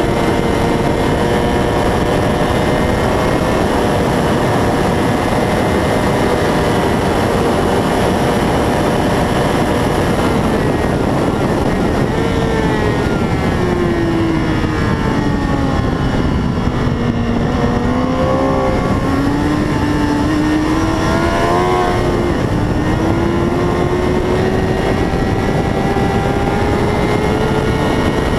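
600 cc racing motorcycle engine under heavy wind rush at speed. The engine note falls for several seconds from about twelve seconds in as the bike brakes into a corner, then climbs steadily as it accelerates out.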